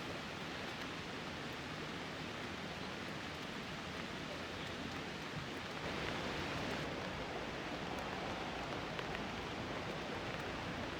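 Steady rain pattering on a tarp, an even hiss with faint drop ticks, growing slightly heavier about halfway through.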